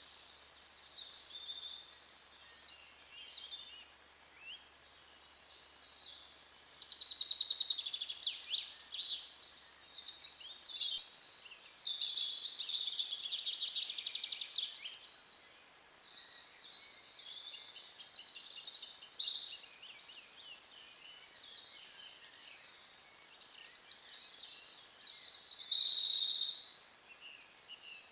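Songbirds singing in the woods: a string of varied whistled phrases and rapid trills, loudest about seven seconds in, again around twelve to fifteen seconds, and in a short burst near the end, over the faint steady hiss of the trail camera's microphone.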